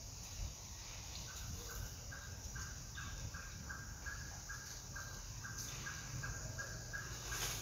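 A bird calling a long series of short notes on one steady pitch, about three a second and evenly spaced, starting about a second in.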